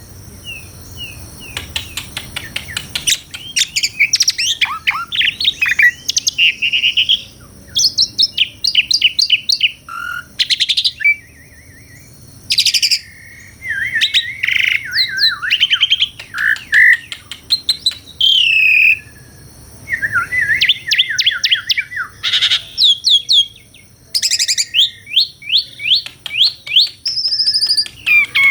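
Asian pied starling (jalak suren) singing a long, varied song: quick runs of repeated notes, whistled glides and chattering phrases, broken by short pauses.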